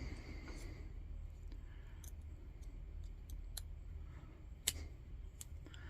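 Scattered light clicks and taps of small lantern parts being handled, the sharpest a little under five seconds in, over a faint steady low hum.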